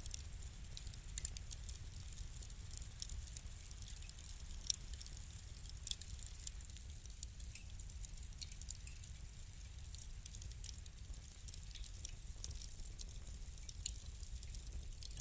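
Wood fire crackling: irregular small pops and snaps, with two sharper pops about five and six seconds in, over a low steady rumble.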